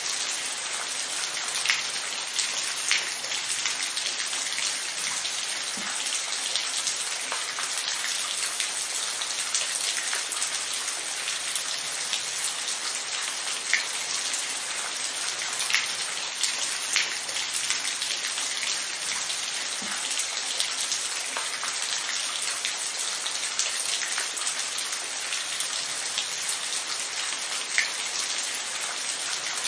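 Steady rain falling, a dense hiss with scattered louder individual drops ticking on a surface.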